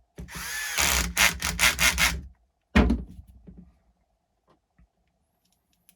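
Parts being handled on a workbench: about two seconds of scraping and rubbing with several quick rasps, then a single sharp thump as something is set down, followed by a few faint ticks.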